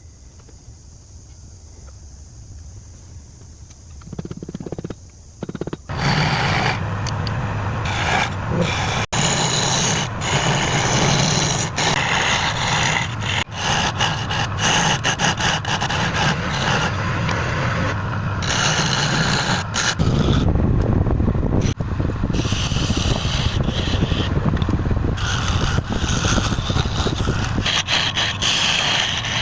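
Wood lathe running, with a hand-held turning tool cutting and scraping the spinning wood from about six seconds in: a steady motor hum at first, then a loud, rough scraping with many sharp catches.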